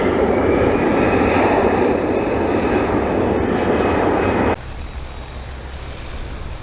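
Boeing 787-9 jet engines at takeoff power: loud engine noise with a whine that rises slightly. About four and a half seconds in it cuts off suddenly to a much quieter low rumble.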